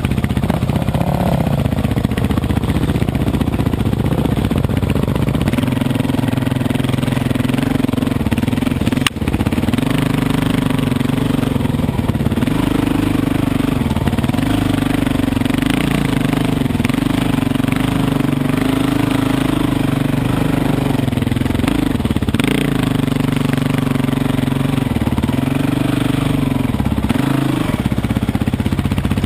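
Dirt bike engine running under way, its note holding steady for long stretches and dipping and picking back up several times, most often near the end, as the throttle is rolled off and on. There is a single sharp knock about nine seconds in.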